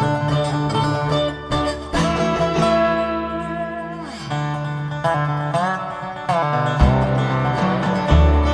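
Acoustic string band playing a bluegrass-style tune live: dobro notes sliding in pitch over guitar, with bass notes underneath.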